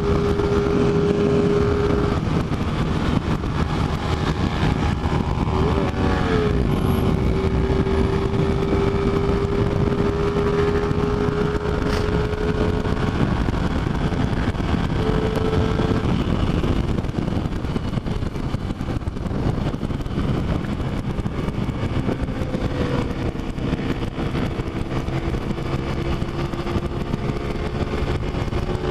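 Motorcycle engine running at a steady cruising speed, its pitch holding almost level with small shifts, under a heavy rush of wind noise; a second engine tone joins in the second half.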